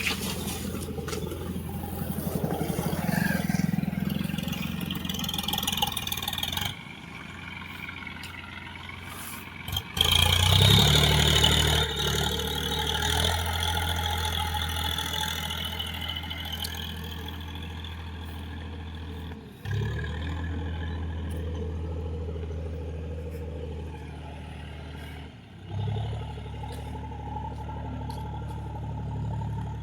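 Massey Ferguson 7250 DI tractor's diesel engine running, its note dropping for a few seconds and then revving up sharply about ten seconds in, with two brief dips later on.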